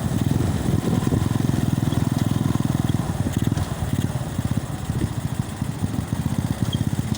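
Wind buffeting a phone's microphone on a moving motorcycle, with the engine running underneath; the noise sits low and pulses rapidly.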